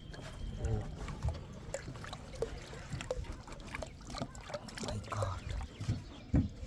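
Water splashing and trickling with scattered clicks and knocks, and one louder thump near the end.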